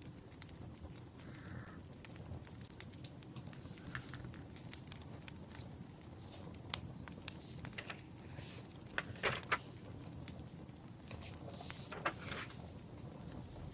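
Wood fire crackling over a low steady rumble of flames, with scattered sharp pops and a few louder clusters of snaps near the middle and again about three quarters of the way through.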